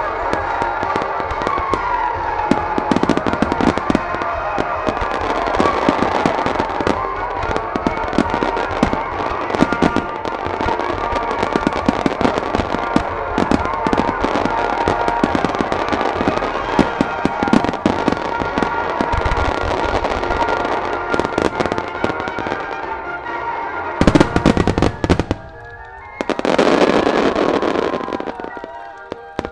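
Fireworks shells bursting in quick succession over accompanying music, a steady run of sharp bangs. Near the end comes a tight volley of loud bangs, then a few seconds of dense rushing noise, then scattered pops.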